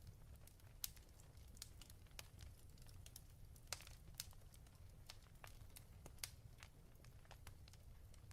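Faint crackling of a wood fire in a fireplace: irregular sharp pops and snaps, a few louder than the rest, over a low steady rumble.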